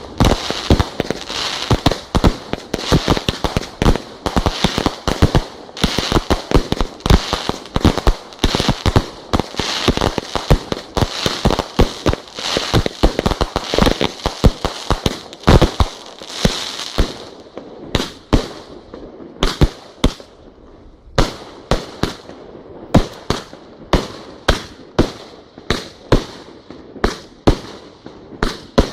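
Fireworks display going off: a dense run of bangs over a crackling hiss for about the first seventeen seconds, then separate bangs about once or twice a second.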